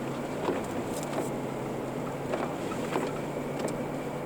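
Car cabin noise while driving in snow: a steady hiss of road and tyre noise over a low engine hum that swells and eases a few times, with a few faint ticks.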